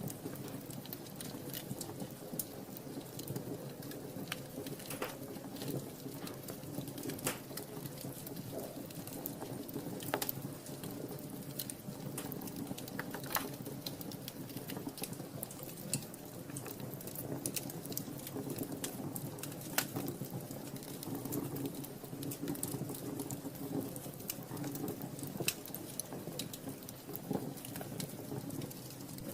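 Wood fire in a fireplace crackling, with irregular sharp pops and snaps over a steady low rush of the flames.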